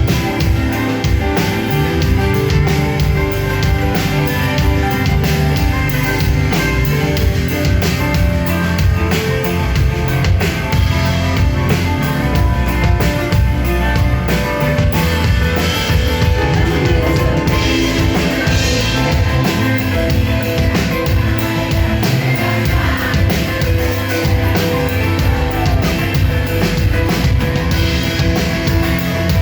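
Pop-rock band music at concert volume, with a drum kit keeping a steady beat under guitar and other sustained instruments.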